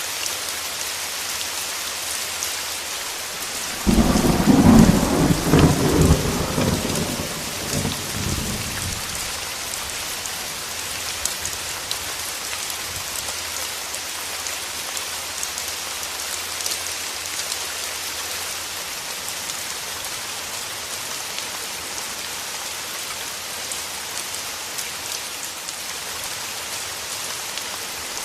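Steady rain, with a sudden clap of thunder about four seconds in that rumbles away over the next few seconds.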